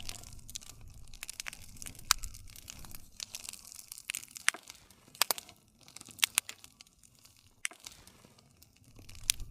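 Wood fire crackling: irregular sharp pops and snaps of burning wood over a soft low rumble of the flames.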